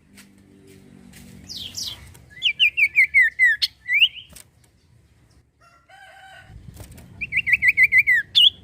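Common iora (cipoh/sirtu) singing: two fast runs of short, sharply falling whistled notes, each closed by a rising note. About six seconds in there is a brief, lower-pitched call.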